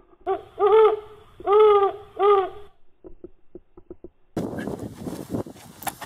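Four owl-like hoots over about two and a half seconds, clean-edged like an added comic sound effect. From about four seconds in comes scuffing and footsteps on gravel as the man scrambles up.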